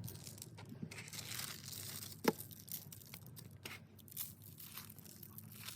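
Wrapping being torn and crinkled, most intense about one to two and a half seconds in, with a few small clicks and a sharper click just after two seconds.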